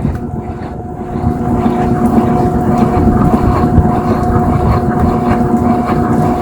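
Washing machine running, its motor giving a steady whine of constant pitch over a low rumble.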